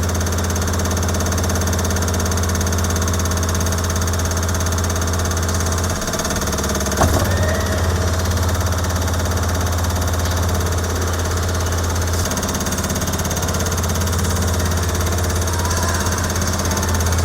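Steady low engine drone with a sharp click about seven seconds in.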